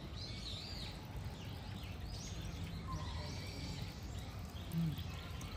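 Small birds chirping in short, repeated calls over a steady low outdoor rumble, with one brief low sound near the end.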